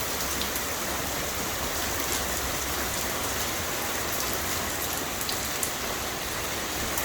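Heavy thunderstorm rain pouring steadily, a dense even hiss of rain on surfaces with occasional sharp ticks of drops.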